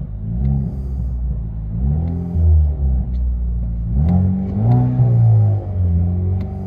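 2016 Chevy Camaro 2.0-litre turbocharged four-cylinder, exhaust running through high-flow cats and a Dynomax Race Bullet, revved several times in quick succession, each rev rising and falling in pitch, heard from inside the cabin.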